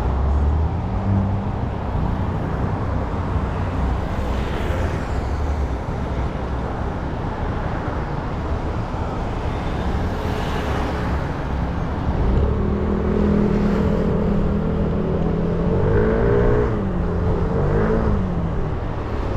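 A 300 cc motorbike engine running on the move, with steady road and engine rumble. Near the end the revs rise and fall twice.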